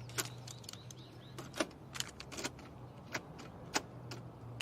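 Scattered sharp clicks and taps, irregular and about one or two a second, over a faint steady low hum.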